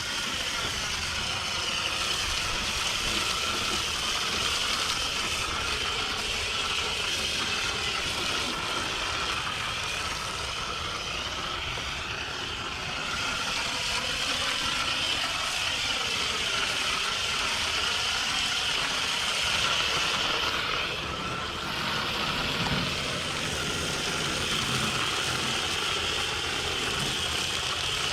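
Garden hose spraying soapy wash through a hose-end sprayer, a steady hiss that dips briefly about three-quarters of the way through.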